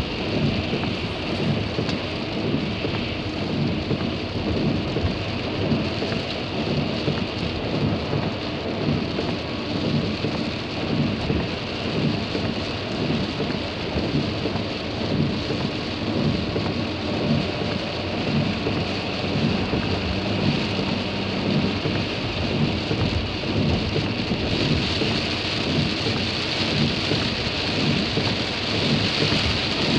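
Heavy rain falling on a car, heard from inside: a dense, steady noise of drops hitting the roof and windshield, a little heavier near the end.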